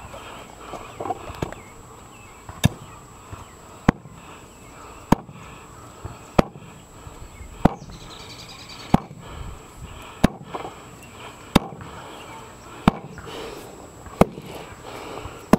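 A sharp click about every second and a quarter, eleven in all, over faint steady background noise.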